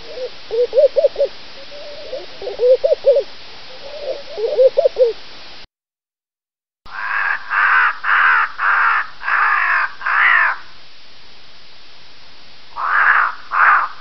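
Laughing dove cooing in three short bubbling phrases. After a brief gap a pied crow calls: a run of about six caws, then three more near the end.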